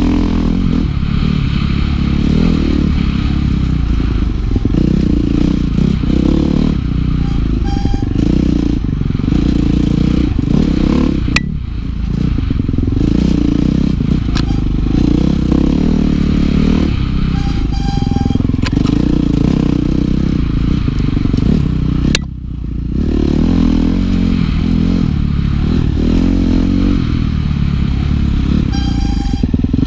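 2016 KTM 350 XC-F single-cylinder four-stroke dirt bike engine running hard under load, revving up and down as it is ridden. The engine note dips briefly twice, and there are a few sharp clicks.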